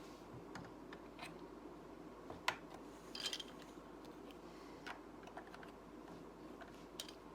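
Plastic Lego pieces clicking and tapping as small parts are handled and pressed into place, a scattering of sharp clicks with the loudest about two and a half seconds in and a quick cluster just after three seconds, over a steady low hum.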